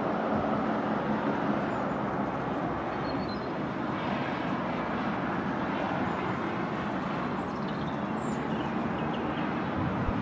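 Diesel multiple unit train approaching slowly: a steady rumble of engine and wheels on the rails, with a low engine note that fades out just after the start. A few faint bird chirps sound over it.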